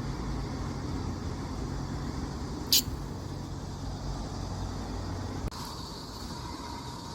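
Low steady engine-like rumble, with a brief sharp high-pitched noise about halfway through; the rumble cuts off abruptly near the end, leaving faint steady high tones.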